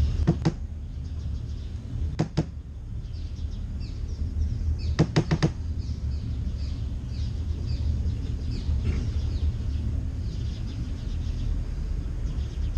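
Boat engine running steadily underway with a low rumble. Quick clusters of sharp clicking knocks come near the start, about two seconds in and about five seconds in, with faint bird chirps high above.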